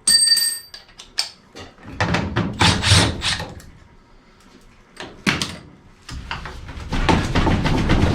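Sheet-metal furnace parts being handled and worked loose: a ringing metallic clang right at the start, then knocks and scraping, with a longer rough scraping rattle in the last two seconds.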